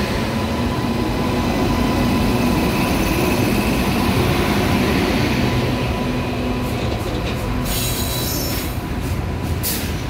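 A freight train of open steel wagons rolling past at close range, with a steady rumble and rattle of wheels on rail. In the last few seconds there is a run of sharp clanks.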